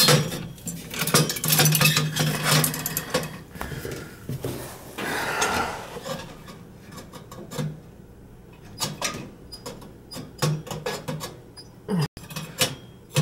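Metal tools and gas fittings clinking and knocking against each other in a run of sharp, irregular clicks, busiest in the first half, during hand work on a gas boiler's valve and pilot fittings.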